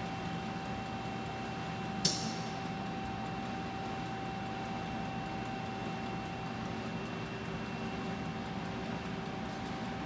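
Steady hum of running machinery with two constant whining tones and faint regular ticking, broken about two seconds in by one sharp, loud click followed by a short fading hiss of air.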